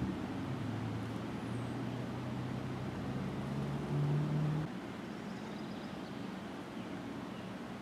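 A motor vehicle's engine running with a low hum, rising slightly in pitch and growing louder, then stopping abruptly a little past halfway.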